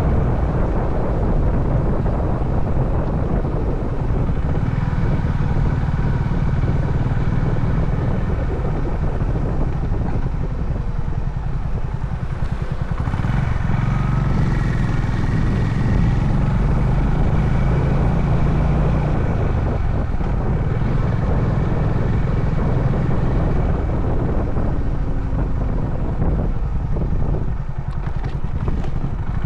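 Honda CB350 Highness single-cylinder engine running steadily while riding, with wind and road noise. The level dips briefly near the end.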